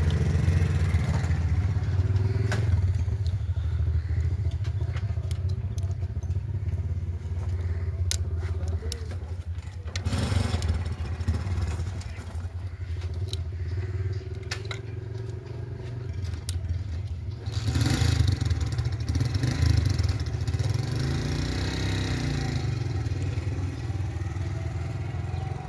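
Old diesel engine running steadily with an even, low beat. A few sharp clicks sound over it, and it grows briefly louder and noisier about ten seconds in and again near eighteen seconds.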